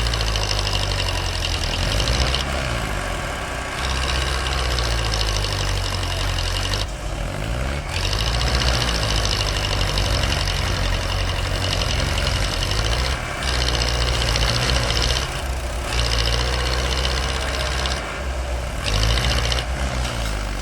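Heavy diesel engine of farm machinery running steadily with a low, knocking rumble. A high whine comes and goes in spells of a few seconds.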